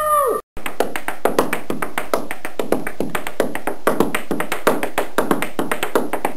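A dense, irregular patter of sharp taps or clicks, several a second, at an even level.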